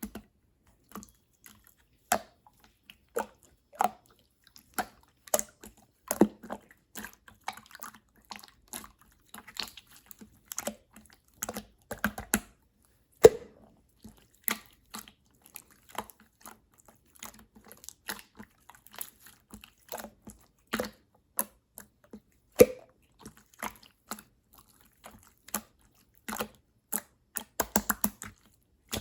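Clear slime being squeezed, pressed and stretched by hand, giving a steady run of irregular sticky clicks and wet little pops as air pockets burst. A few of the pops stand out louder than the rest.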